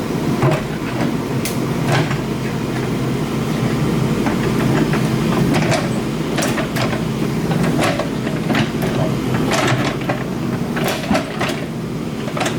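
Excavator's diesel engine running steadily, with repeated sharp metallic clanks and knocks scattered through it.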